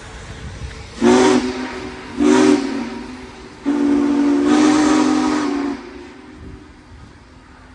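Union Pacific Big Boy 4014's chime steam whistle blowing two short blasts and then one longer blast.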